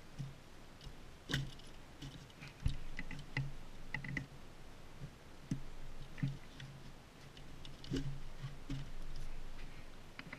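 Scattered clicks and knocks of gear being handled as an airsoft grenade is worked into its place on a duty belt.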